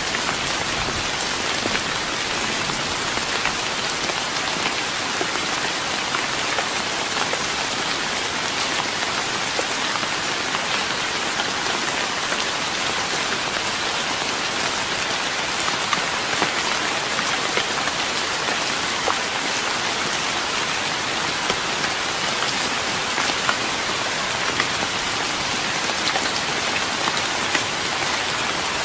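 Steady rain falling on a wooden deck, a constant hiss of rainfall with many small drop taps on the boards.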